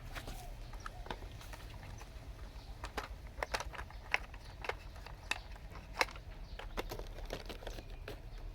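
Irregular sharp clicks and taps, about one or two a second, over a steady low hum.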